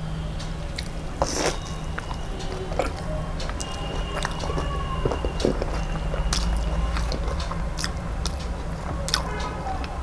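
Close-up eating sounds: a person biting and chewing food, with many small clicks and crackles of the mouth over a low steady hum.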